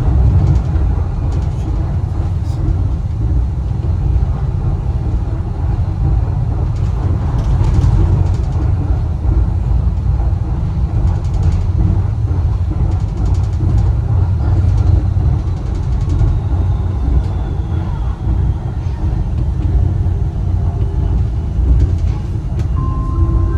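Wuppertal Schwebebahn suspension railway car running along its overhead rail: a steady low rumble with faint scattered clicks and rattles.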